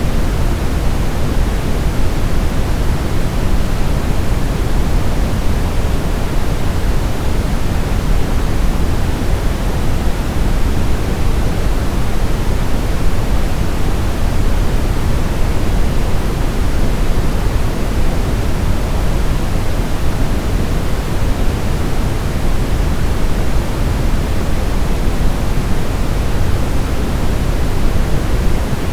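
Steady generated pink-type noise, a loud, unchanging hiss weighted toward the low end, used as white noise for baby sleep.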